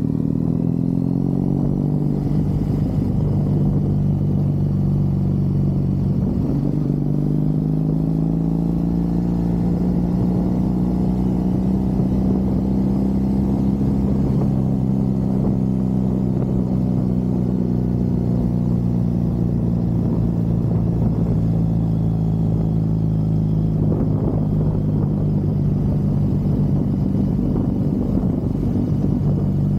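Triumph Bonneville parallel-twin motorcycle engine running under way, heard from the rider's seat. Its pitch drops at the start, climbs again about six seconds in, then eases and settles to a steady cruise.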